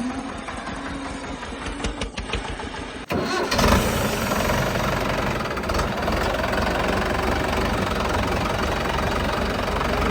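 Tractor diesel engine running. About three seconds in the sound changes abruptly to a louder, steady engine note, with a brief loud surge just after.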